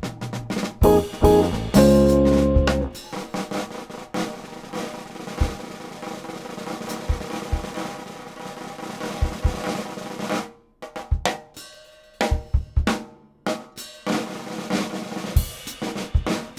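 Jazz drum kit to the fore of a quartet: a loud sustained ensemble hit about two seconds in, then ringing cymbals with scattered kick drum strokes, and from about ten seconds separate snare and drum strikes with short gaps between them.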